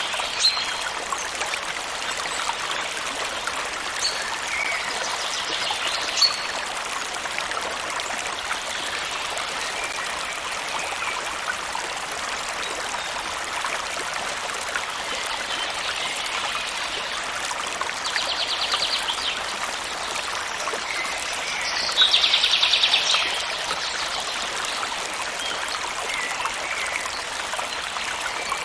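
Stream flowing steadily over stones, with birds calling over it: scattered short chirps and a few rapid trills, the loudest trill about three-quarters of the way through.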